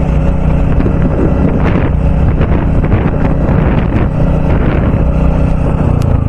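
Royal Enfield Bullet's single-cylinder engine running steadily while riding up a steep hill road, with wind buffeting the microphone.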